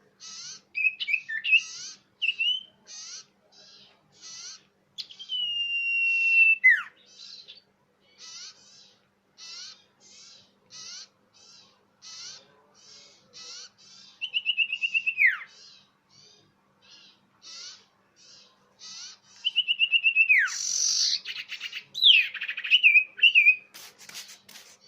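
Common iora (cipoh) calls from a bird-lure recording: short chirps repeating about once or twice a second, broken by long whistled notes that hold steady and then slide steeply down. A louder, busier chattering run comes near the end.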